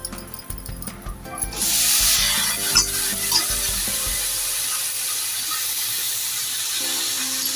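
Freshly washed, still-wet flat beans (papdi) going into hot oil and fried onion-garlic masala in an aluminium kadhai: a sudden loud sizzle about a second and a half in, settling into a steady hiss of frying.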